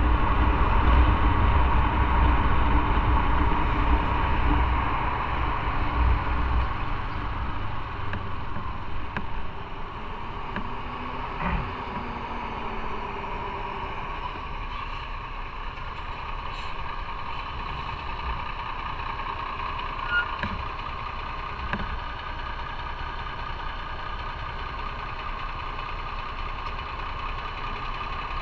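Motorcycle engine and wind rumble while riding, loud at first and easing off over the first ten seconds, then a steady, quieter engine running at low speed or idle, with a few brief clicks from traffic around it.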